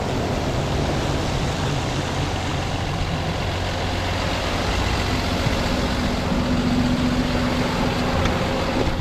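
Kenworth T270 tow truck's diesel engine running steadily, with a dense hiss of rain and road noise over it.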